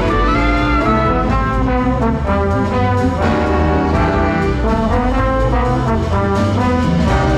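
Big band playing, with the brass section of trumpets and trombones sounding chords in short, shifting notes over a full low end.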